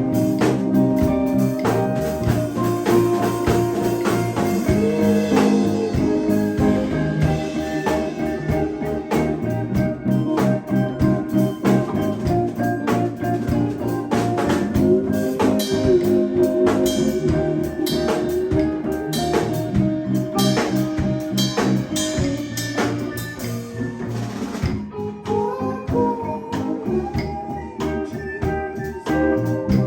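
A live band playing a jam, with a drum kit and guitar.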